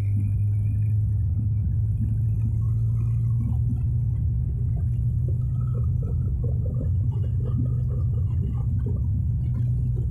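Tractor engine running steadily with a low, even drone, with light rattles over the middle of the stretch.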